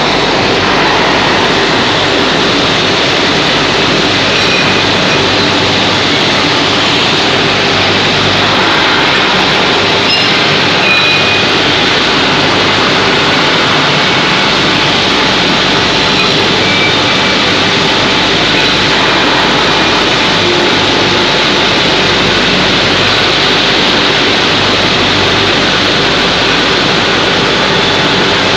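Induction hardening machine running: a steady, loud, even rushing machine noise with faint thin high tones over it.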